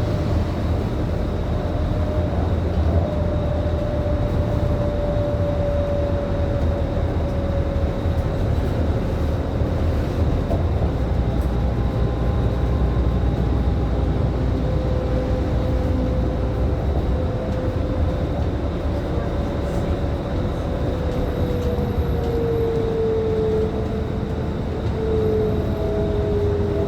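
Scania K310IB city bus heard from inside the cabin: a steady low rumble from the engine and driveline, with a whine whose pitch slowly falls across the stretch.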